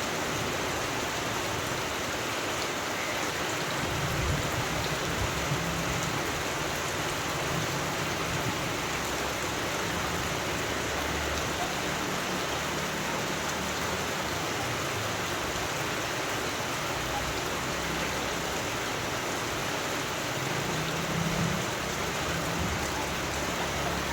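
Steady rain falling, a dense even hiss, with a low rumble now and then.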